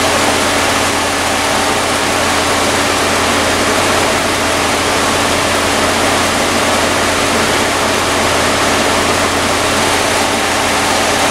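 Chevy Impala's V6 engine idling under the open hood with the A/C running and the cooling fans blowing: a steady, loud rushing with a low, even hum beneath it.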